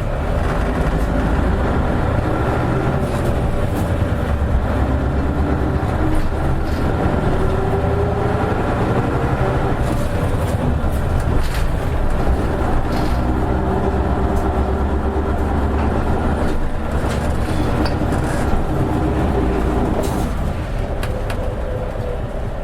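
Isuzu Erga KL-LV280N1 diesel city bus running, heard on board: a steady engine and drivetrain rumble whose note rises as the bus picks up speed, then eases off about twenty seconds in as it slows.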